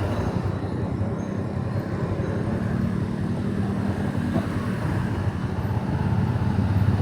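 Motorcycle engine running steadily while riding along, with a little change in pitch.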